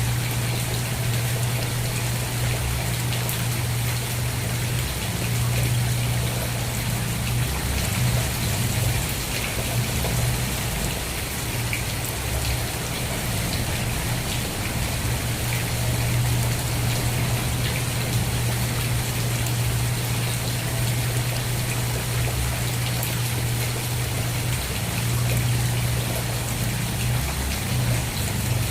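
Steady rain falling, an even hiss with scattered drops ticking, over a low steady hum.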